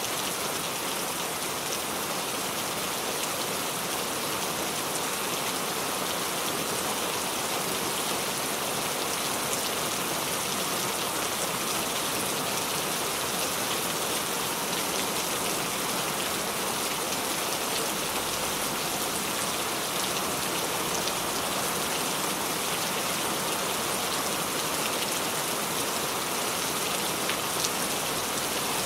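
Steady rain falling on a surface, an even hiss with fine patter of drops.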